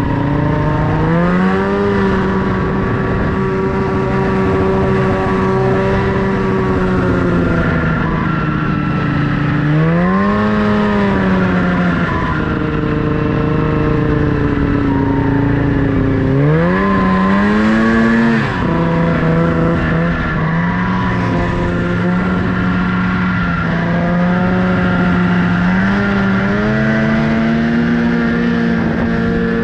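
Snowmobile engine running under way, its pitch holding steady for stretches and then rising and falling several times as the throttle is worked.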